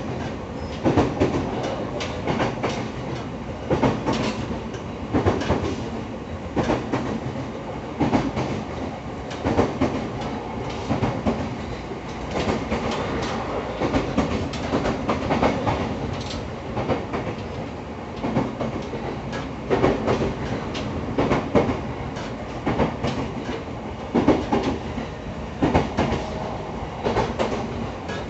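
EV-E301 series battery-electric train running at speed, heard from inside the passenger car: a steady rolling rumble with wheels clattering over rail joints in an irregular, repeating clickety-clack.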